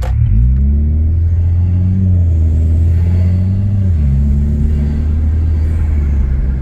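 Chevy Cruze with a 3-inch downpipe, Vibrant resonator and Magnaflow muffler accelerating hard after a short click: the exhaust note rises steeply, holds, then drops once about four seconds in, as at an upshift, and pulls on.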